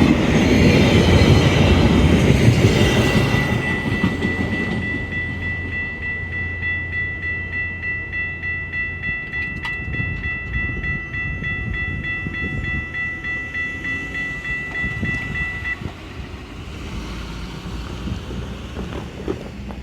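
Passenger train passing close by, loud at first and then fading as it moves away, with a rhythmic clickety-clack about twice a second. A steady high ringing tone sounds over it and cuts off suddenly near the end.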